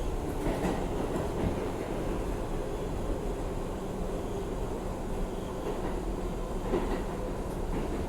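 R62A subway car running along the track, heard from inside the car: a steady rumble with a few faint clicks from the wheels over the rails.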